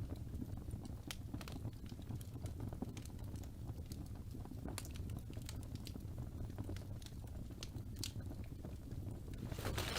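Wood fire crackling: scattered sharp pops and snaps over a steady low rumble of flames, with a brief hissing flare near the end.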